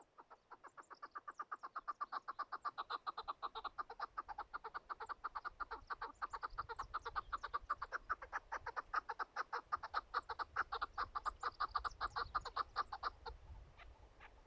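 Chukar partridge calling: a long, rapid series of clucking notes, several a second, building in loudness and then stopping abruptly about 13 seconds in.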